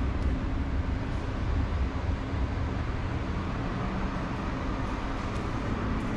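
Steady rumble of city street traffic, with a few faint ticks near the end.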